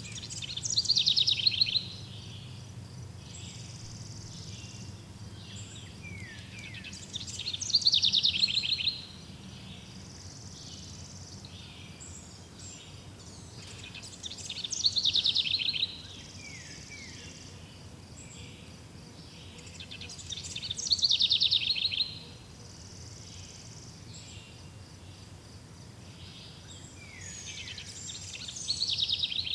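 Forest ambience: a songbird repeats the same short song five times, about every seven seconds, each phrase falling in pitch as it runs down. Between the songs there is a steady low background hum and fainter high chirps.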